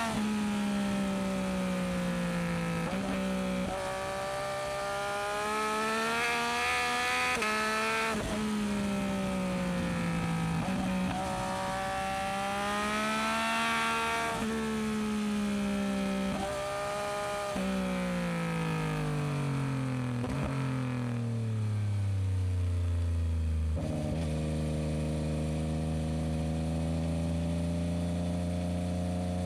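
Yamaha MT-09SP's inline three-cylinder engine through an aftermarket Dominator exhaust, its revs rising and falling with several gear changes. About two-thirds of the way through the revs wind down, and from about 24 s the engine settles into a steady idle.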